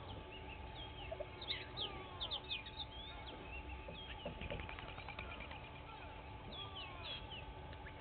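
Several wild birds singing and calling: short whistled notes, chirps and sliding calls, with a fast rattling trill about four seconds in.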